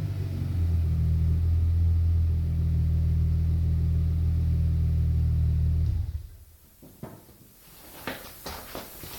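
Audi A6 4B 2.8 V6 idling with a deep, steady rumble through a Friedrich Motorsport exhaust without its middle silencer, then switched off about six seconds in. A few light clicks follow near the end.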